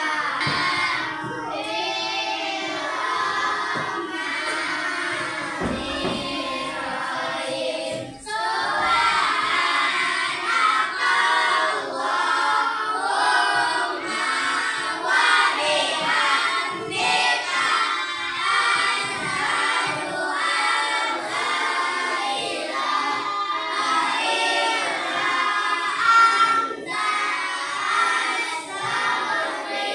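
A class of children singing a song together in chorus.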